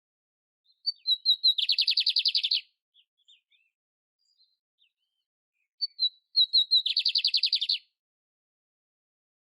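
A canary (canário-império) singing two song phrases, each a few short chirps followed by a rapid, high trill lasting about a second.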